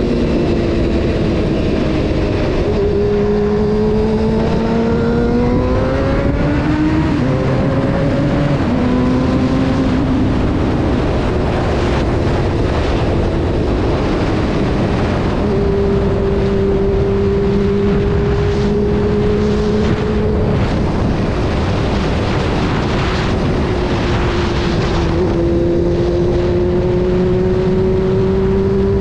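Honda CBR600 F4's inline-four engine running under way, its pitch climbing through the revs and dropping at gear changes, with a steady rush of wind and road noise. The revs rise during the first few seconds, fall back around eight seconds in, hold steady in the middle, and climb again near the end.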